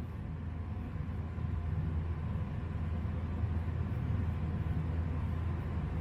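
Slant safety razor making faint, short scraping strokes through lather and stubble, several a second, over a steady low background hum.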